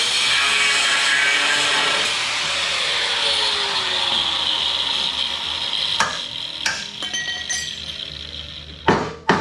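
A power tool cutting rivets on a steel truck frame runs with a steady hiss and winds down, falling in pitch, over the first half. Then hammer blows on steel drive the rivets out: a few light taps, and the loudest strikes near the end.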